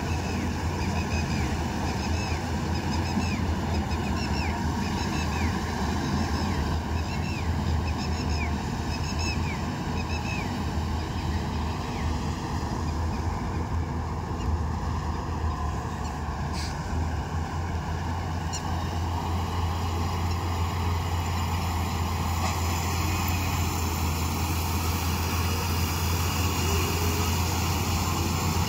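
A combine harvester's engine and threshing machinery running steadily under load. For about the first ten seconds a short high chirp repeats roughly once a second.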